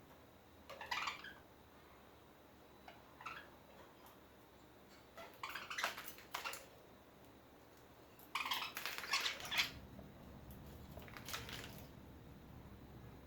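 Pet budgies making short scratchy chirps and rustles in scattered bursts, the busiest stretches around six and nine seconds in.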